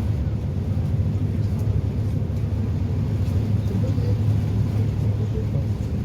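Passenger catamaran's engines running under way: a steady low drone with a constant hum of water and hull noise above it.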